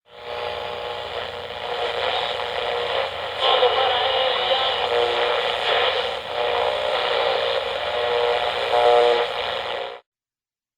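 Old band-limited radio broadcast recording: a steady, noisy, machine-like sound with some held tones in it. It cuts off suddenly about ten seconds in.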